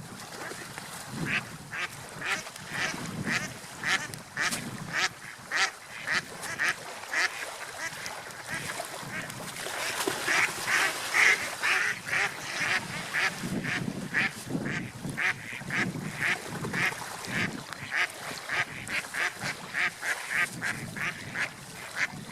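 Ducks quacking in a long run of short calls, about two to three a second, loudest around the middle.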